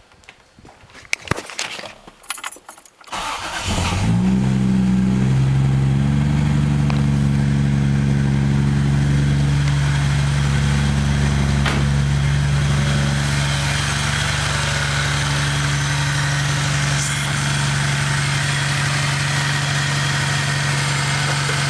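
A few clicks, then a car engine cranks briefly and starts about three seconds in. It runs a little faster for a second or two, then settles into a steady idle.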